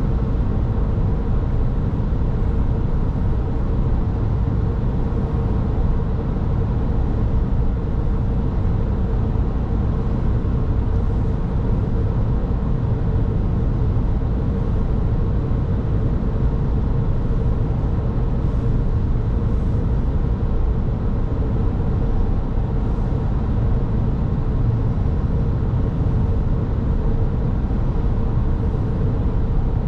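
Car driving along the road: a steady low rumble of engine and tyre noise, with a faint steady hum on top.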